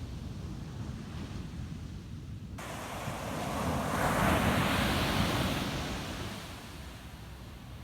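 Ocean surf on a beach: a wave builds up, breaks about four to five seconds in and washes back out, over a steady low rumble of wind on the microphone.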